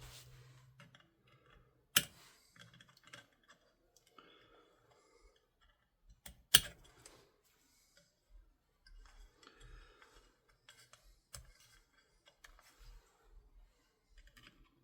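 Small metal tool clicking and scraping against a tiny C-clip on an airsoft rifle's receiver while prying at it, with many light ticks and two sharp, louder clicks about four and a half seconds apart.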